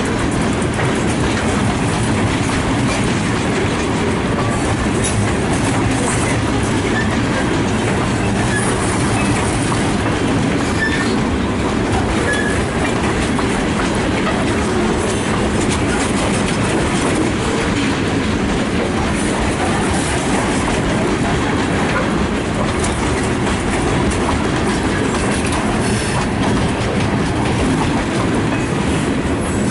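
Freight train's open-top cars rolling steadily past, their wheels running on the rails.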